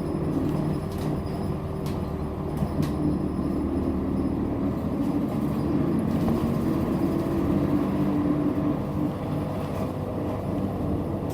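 Inside a moving Nishitetsu city bus: a steady engine drone and road rumble that shifts slightly in pitch, with a few light rattles.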